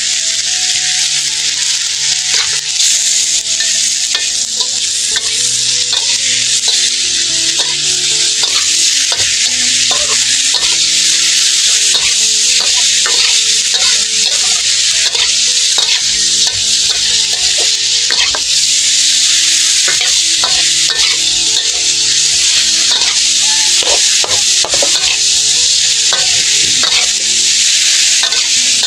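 Pieces of fatty pork sizzling in oil in a metal wok, stirred and turned with a metal spatula that scrapes and clacks against the pan, more often in the second half.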